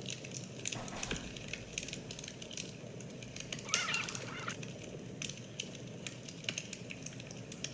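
Irregular crackles and sharp clicks throughout, with a bird giving a short burst of warbling chirps about four seconds in.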